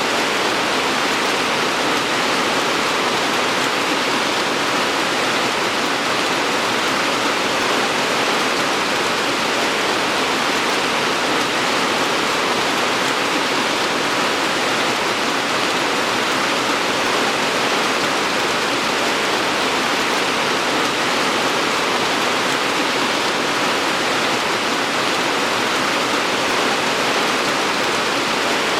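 Steady, unbroken rain falling, an even hiss without distinct drops or changes.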